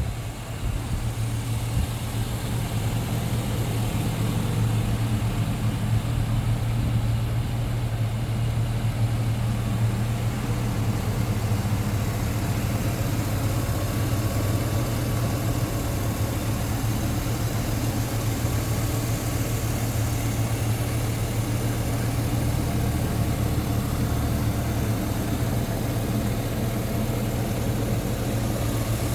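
1999 Chevrolet Silverado Z71's engine idling steadily, heard close up at the open engine compartment.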